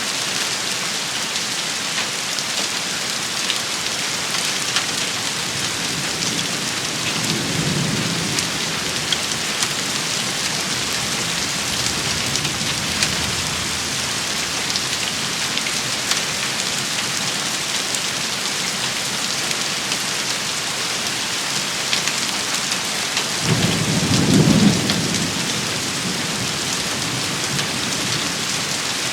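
Steady rain from a storm, with scattered sharp drop hits, and low rumbles of thunder, the loudest about three quarters of the way through.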